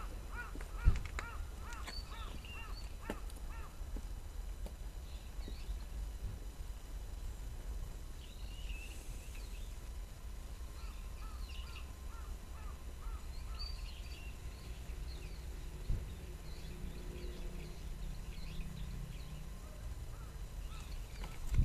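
Birds calling: a quick run of short arched chirps in the first two seconds, then scattered higher calls throughout, over a low steady rumble. A brief knock about a second in and another around sixteen seconds.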